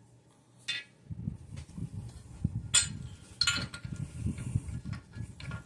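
Metal parts of a cam bearing installer tool being handled and fitted together: irregular clinks and scrapes, with four or so sharp metallic clinks.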